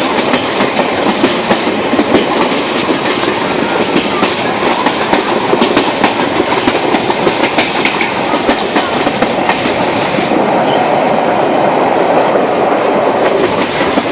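Train running along the track, wheels clattering over the rails in a dense, steady noise; the high hiss drops away about ten seconds in.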